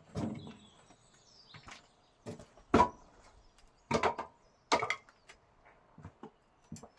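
Pieces of chopped firewood knocking and clattering against each other as they are picked up and stacked: about eight separate, irregular wooden knocks, the loudest a little before the three-second mark.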